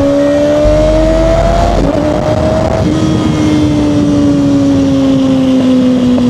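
Kawasaki Ninja sport bike's inline-four engine running under way: its pitch climbs, breaks off briefly about two seconds in, then sinks slowly as the bike eases off.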